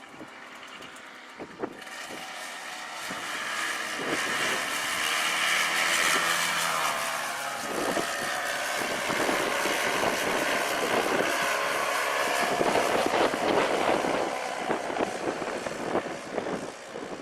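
Paramotor engine and propeller running, building up over the first few seconds and holding at high power with its pitch wavering, then easing off at the very end.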